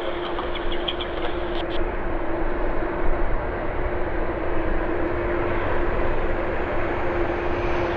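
Jet engine noise from a Boeing 747-400 airliner: a steady rushing sound with a constant low hum under it, and a faint high whine that creeps upward near the end.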